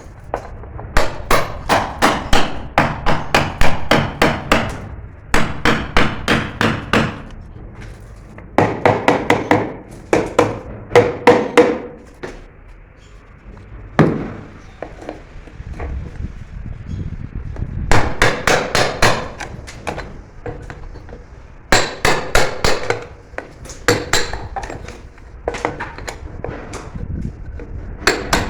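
Hammer striking hard and fast, about three or four blows a second, in runs of a few seconds with short pauses between them. There is a longer pause near the middle, broken by a single knock.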